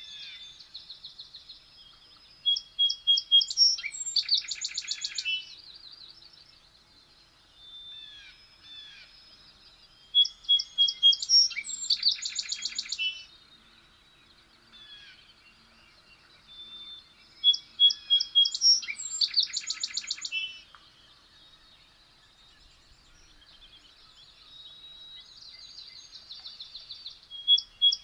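A songbird singing the same phrase four times, about every seven and a half seconds: a few clear notes, then a fast, loud trill, with softer chirps in between.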